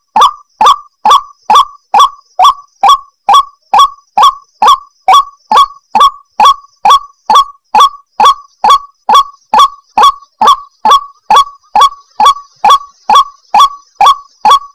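White-breasted waterhen (ruak-ruak) calling: a short, loud, harsh note repeated monotonously about two and a half times a second without a break.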